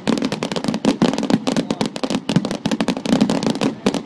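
Fireworks going off in rapid succession: a dense, continuous string of sharp bangs and crackles, many each second.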